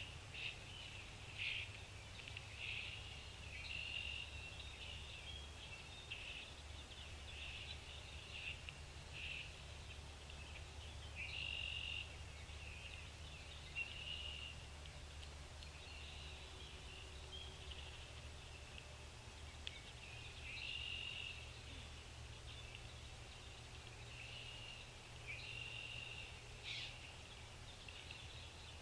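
Small birds chirping: short, high calls repeating every second or so, with some brief pauses, over a faint steady low hum.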